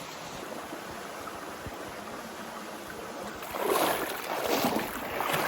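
Steady rush of a flowing creek. About three and a half seconds in, louder irregular bursts of noise begin over it.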